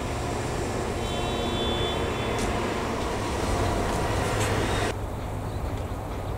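EF65 electric locomotive slowly hauling carriages through the yard: a steady low rumble with a few sharp clicks and a brief high squeal about a second in. About five seconds in the sound abruptly turns duller and quieter.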